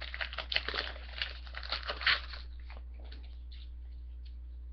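Foil wrapper of a hockey card pack crinkling and tearing as it is opened, in quick crackly bursts, loudest about two seconds in, then only a few faint rustles.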